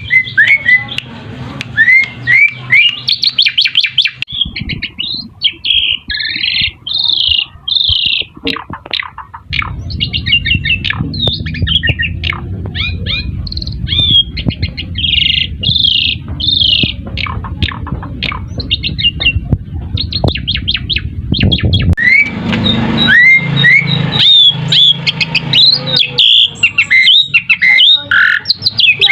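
Jalak suren (Javan pied starling) singing a long, varied run of rising whistles, rapid rattles and harsh chattering notes. A low background rumble sits under the song through the middle.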